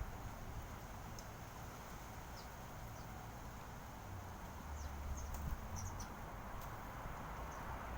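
Birds chirping: a dozen or so brief, high chirps scattered unevenly, over a steady background hiss with a low rumble around the middle.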